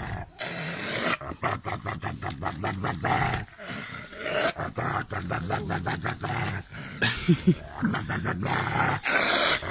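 A dog growling, in quick repeated pulses throughout.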